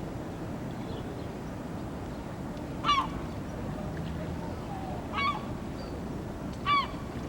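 Gulls giving three short, sharp calls, a couple of seconds apart, over a steady low background noise.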